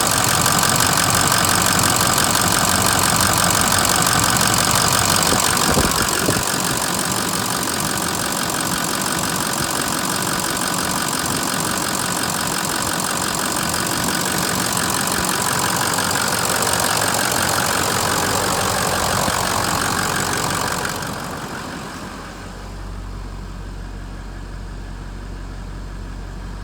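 Ford 6.0L Power Stroke turbo-diesel V8 running with a steady, even clatter. About 21 seconds in, the higher clatter drops away and a quieter, lower steady hum remains.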